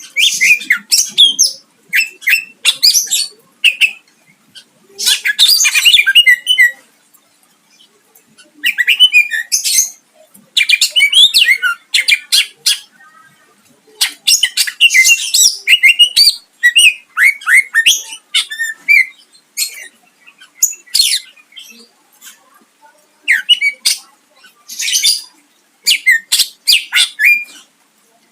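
A cucak ijo (green leafbird) singing loudly in quick, varied bursts of one to two seconds with short pauses, with harsh squawky notes mixed in. It is a 'full isian' song, packed with phrases borrowed from other birds.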